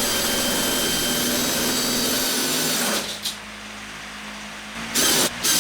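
Electric drill running steadily as it bores a hole through the table, with a faint motor whine, then winding down about three seconds in. Near the end come two short bursts of the drill.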